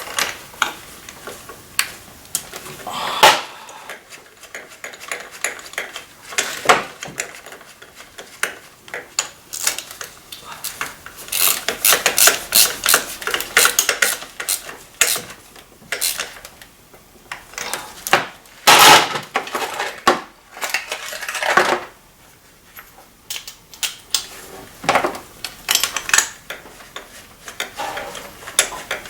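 Metal hand tools clinking and clicking in irregular runs as new spark plugs are fitted and tightened into the engine. The clicking comes in dense runs at times.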